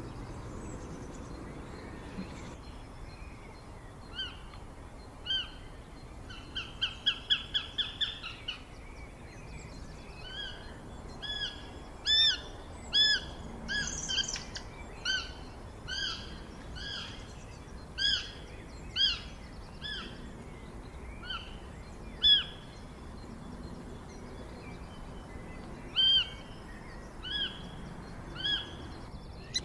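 A bird chirping: short arched chirps, mostly about one a second, with a quick run of chirps about seven seconds in, over a faint steady hiss.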